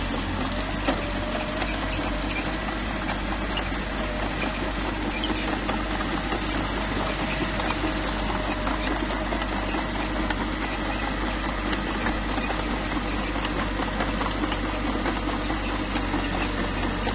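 Small crawler bulldozer at work: its diesel engine runs steadily while the tracks and blade give off many small squeaks and clicks.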